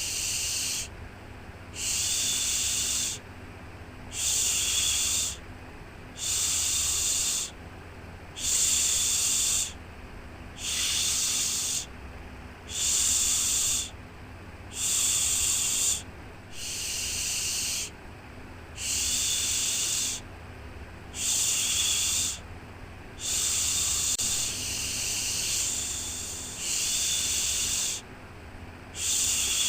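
Rhythmic 'shhh' shushing for settling a baby: one hiss about a second long, repeated about every two seconds, over a steady low hum.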